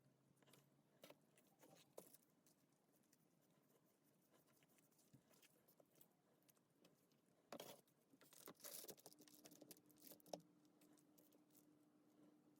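Near silence with faint scattered clicks and rustles, with a denser spell of rustling a little past the middle and a faint steady hum after it.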